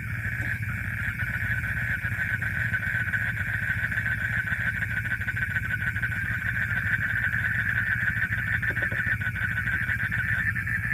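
Steady nighttime insect chorus, a continuous high rapid trill, over a low steady drone.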